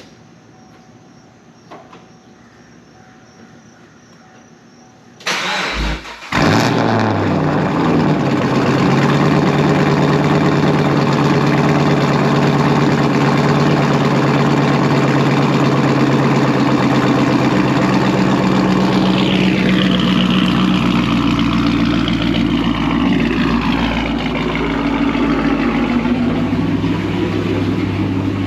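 A 2011 Chevrolet Camaro SS's 6.2-litre V8, straight-piped with no catalytic converters, cold-started: after about five quiet seconds the starter cranks for about a second, then the engine catches with a loud bark and settles into a loud, steady fast idle.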